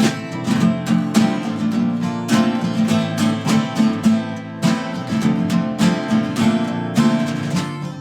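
A live band playing an instrumental passage, with acoustic guitar strummed in a steady rhythm.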